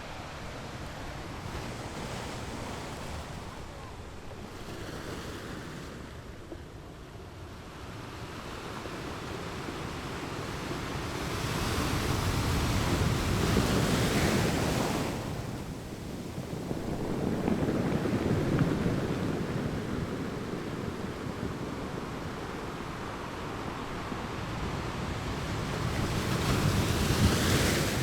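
Ocean waves washing in and out, a steady rush of surf that swells and falls back, with the loudest surges about halfway through and again near the end.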